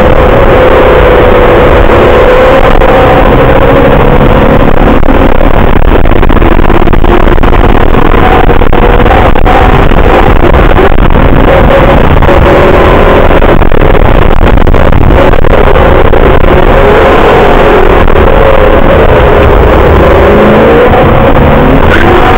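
BMW E34 540i's V8 engine heard from inside the cabin on track, loud, with road and wind noise. The engine note climbs under hard acceleration through the first half, then falls away as the car brakes hard near the end.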